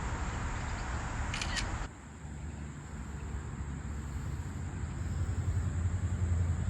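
Steady rush of shallow creek water, with a short clicking rattle about a second and a half in. The noise drops suddenly at about two seconds, then a low rumble builds toward the end.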